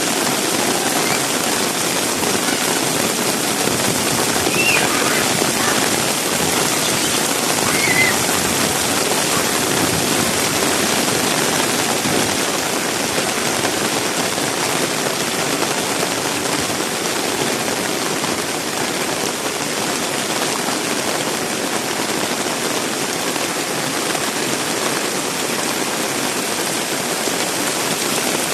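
Heavy rain falling and splashing, a steady loud hiss with no let-up. Two faint, brief high-pitched sounds rise above it about five and eight seconds in.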